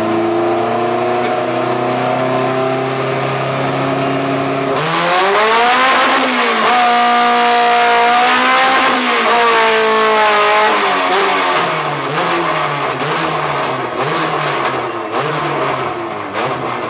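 Honda B20 VTEC inline-four on open headers running on a chassis dyno. It holds a steady speed, then about five seconds in revs climb sharply and hold high, falling back about ten seconds in. The revs then waver at a lower speed.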